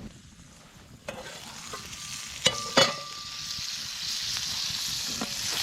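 Bannock frying in a pan over a campfire, sizzling with a hiss that grows louder through the second half. A few metal clanks sound about a second in and again around two and a half seconds, one ringing briefly.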